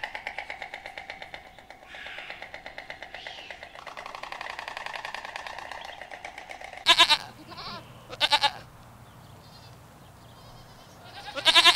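Goats bleating: three loud, wavering bleats in the second half, the first about seven seconds in. Before them runs a quieter, steady pulsing buzz.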